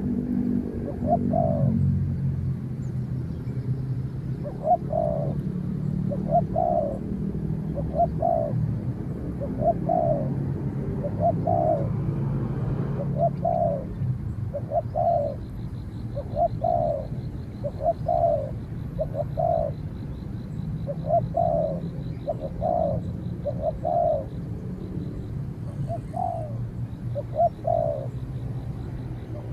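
Spotted doves cooing: short, rough coo notes repeated in pairs and threes, over and over. A low rumble runs underneath, and about halfway in a fast high buzzing trill starts.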